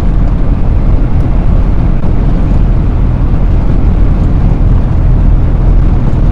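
Pickup truck driving, heard from inside the cab: a loud, steady low engine rumble with road noise.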